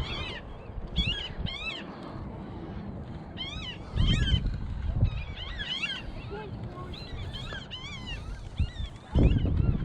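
Birds calling over and over: short, high, squealing calls, several in quick runs. Low rumbling noise swells about four seconds in and again near the end.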